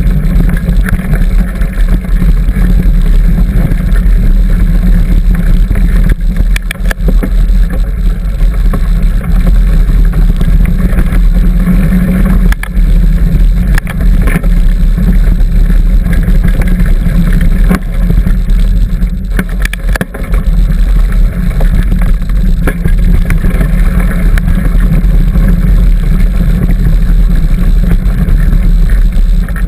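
Bicycle ridden along a dirt trail, heard through a camera microphone: steady, loud wind rumble on the microphone, with scattered clicks and rattles from the bike over rough ground.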